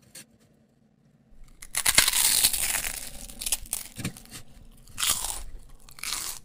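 A person chewing a brisket grilled cheese sandwich close to the microphone, the toasted bread crunching. After a quiet start the chewing begins about a second and a half in and comes in uneven bursts, loudest about two seconds in and again near five and six seconds.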